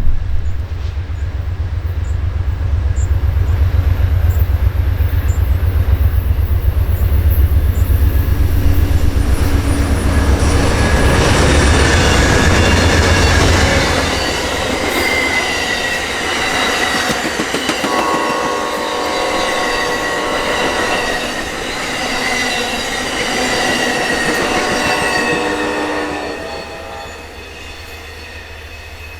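Amtrak diesel locomotives passing close by with a loud, deep engine rumble for about the first half. The passenger cars then roll past with wheel squeal and clicking over the rail joints, and the sound drops away near the end.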